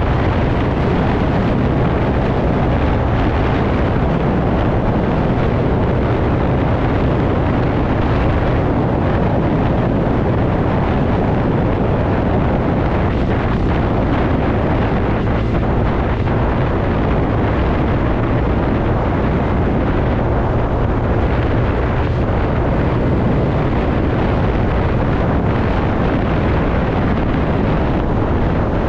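Steady wind rush over the microphone while riding a TVS Ntorq scooter, with the scooter's engine running evenly underneath.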